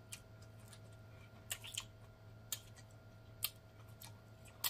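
Close-miked chewing: a handful of short, sharp wet mouth clicks and smacks spread over a few seconds, the loudest near the end as a green chili pepper is bitten into.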